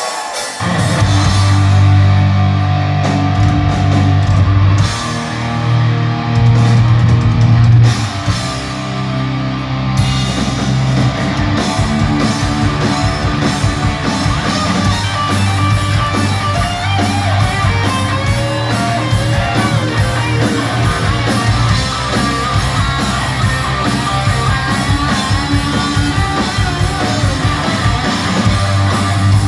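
Live heavy metal band, loud and amplified, playing a song's intro with no vocals. Distorted electric guitar and bass hold heavy chords at first, and the full drum kit beat comes in about ten seconds in.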